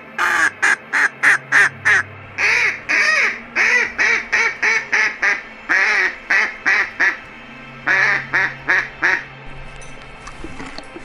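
An animal calling in a rapid series of short, loud calls, about two to three a second, which stop about nine seconds in.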